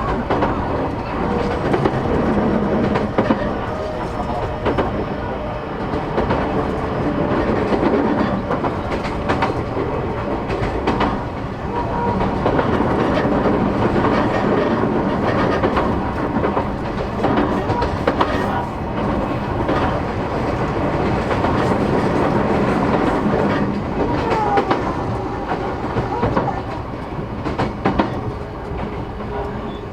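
Inside a JR East E233 series 8000 electric commuter train running at speed: a steady rumble of wheels on rail, with frequent clicks over rail joints and the hum of the traction motors and their inverter.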